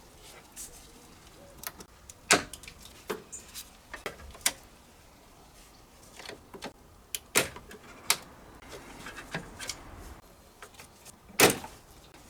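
Irregular metallic clinks and knocks of hand tools and parts being handled while taking apart a car's underbody, a dozen or so sharp strikes, the loudest about two seconds in, seven seconds in and near the end.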